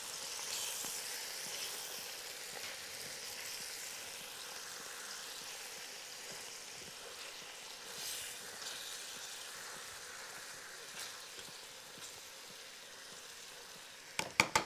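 Whole quail sizzling as they brown in hot fat in a pot, a steady frying hiss that slowly fades. Near the end come a few sharp clicks as the tongs knock while turning the birds.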